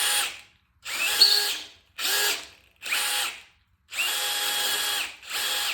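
Power drill boring into a Ford 4.6 4V Teksid aluminium engine block, run in six short bursts with a steady whine, each one stopping abruptly. This is the hole that goes too deep and breaks into a water passage.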